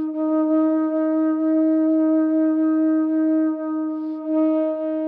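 Conch shell trumpet (pututo) blown in one long, steady, held note, rich in overtones, with a brief dip and re-attack a little before 4 seconds in.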